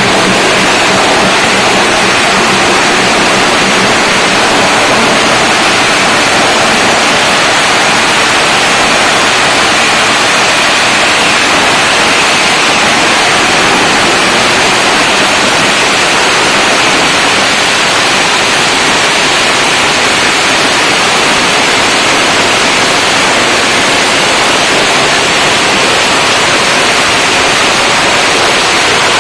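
A long string of firecrackers going off in a loud, continuous, dense crackle that does not let up.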